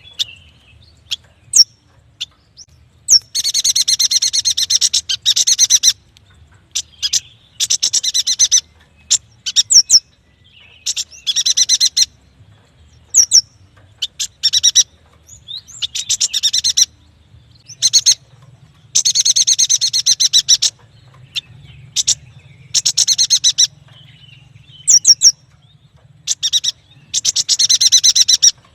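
A yuhina singing: high, rapid chattering trills, each lasting about one to three seconds, with single sharp chirps in the pauses between them.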